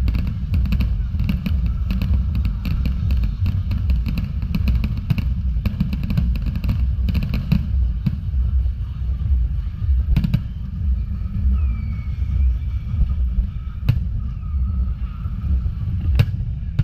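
Fireworks going off overhead: a rapid run of many sharp cracks for the first seven seconds or so, then single sharp bangs a few seconds apart, over a constant low rumble.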